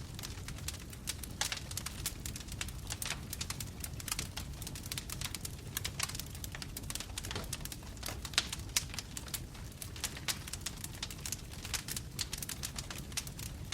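Logs burning in a fireplace, crackling with dense, irregular pops and snaps over a low steady rumble of flame, with a couple of louder pops a little past the middle.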